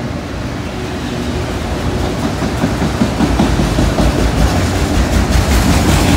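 CSX freight train of autorack cars rolling past close by: a steady rumble of steel wheels on the rails that grows louder about a third of the way in, with a clatter of wheel clicks near the end.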